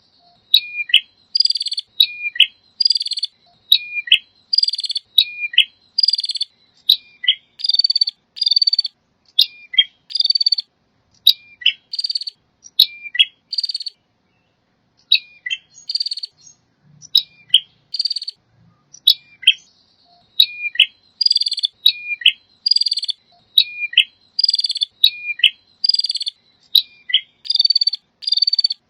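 Male prenjak (prinia) calling over and over, about one call a second. Each call is a quick hooked note followed by a brief rapid burst, with a short pause about halfway through.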